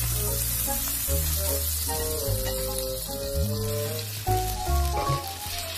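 Egg-coated toast frying in fat in a nonstick pan, with a steady sizzle. Background music plays along with it.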